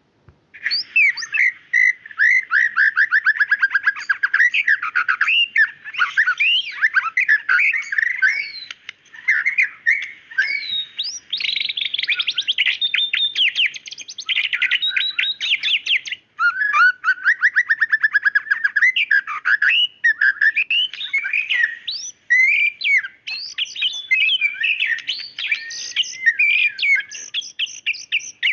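White-rumped shama (murai batu) singing continuously: rapid trills of quickly repeated notes mixed with varied sweeping whistled phrases.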